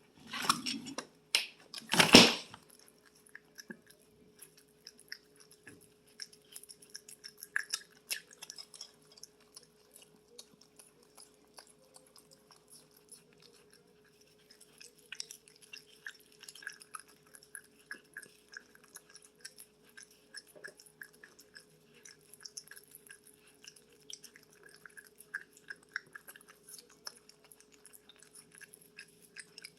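An opossum chewing food: a long run of small, irregular crunching clicks. Two loud knocks come in the first two seconds, and a faint steady hum runs underneath.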